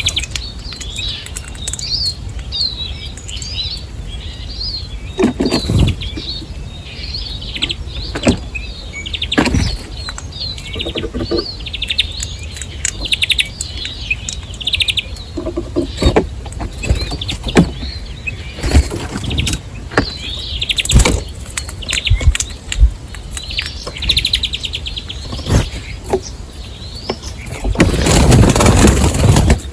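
Wild birds chirping and twittering in short repeated calls, over a steady low rumble and many short sharp taps. A loud rushing noise comes in near the end.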